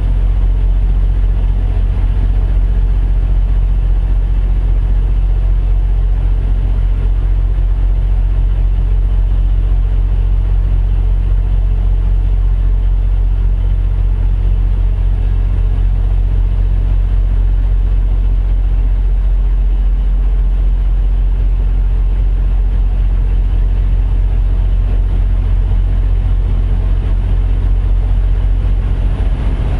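Heavy diesel truck engine idling steadily, a constant low hum.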